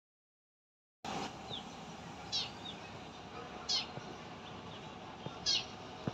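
Faint, short, high bird chirps, four scattered calls over a steady outdoor hiss. The sound starts after about a second of complete silence.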